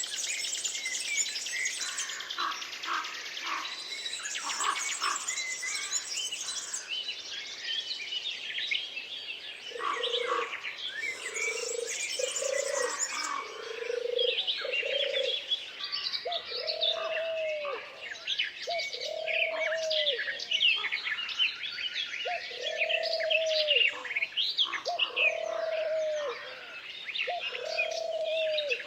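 A chorus of forest songbirds chirping and trilling over one another. From about a third of the way in, a lower call repeats every second or two.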